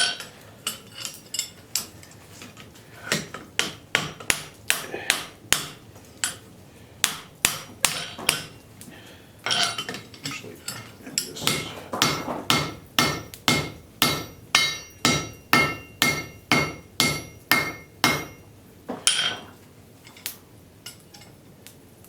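Blacksmith's hand hammer forging a hot railroad spike on an anvil, about two blows a second. The steel rings clearly under the blows in the second half. The hammering stops about 19 seconds in.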